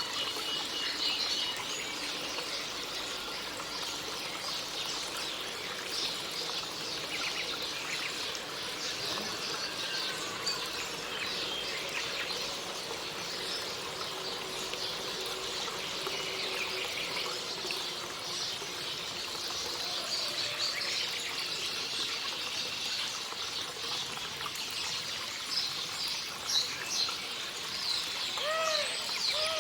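Small songbirds chirping and twittering on and off over a steady hiss, with a few short, lower calls that rise and fall near the end.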